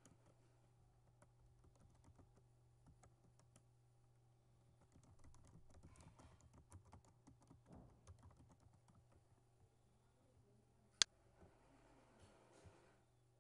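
Faint typing on a computer keyboard: irregular key clicks, busiest about halfway through, over a low steady hum. One sharp, much louder click comes near the end.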